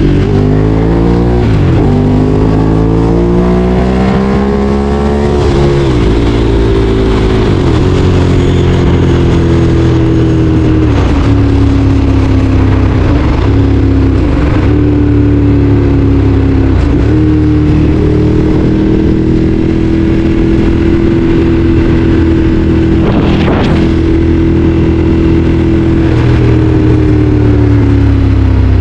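Ducati Streetfighter 848's 849 cc L-twin engine under way, its pitch climbing as it accelerates, with brief drops at gear changes. It then holds a steady cruise, and the revs ease off near the end.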